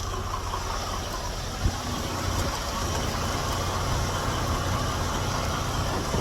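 Semi truck's diesel engine running steadily, a low even rumble, with a single short tap about a second and a half in.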